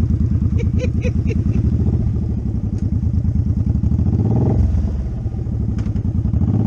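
Motorcycle engine idling with an even, rapid low pulse. It swells briefly about four seconds in, as from a throttle blip, then settles back.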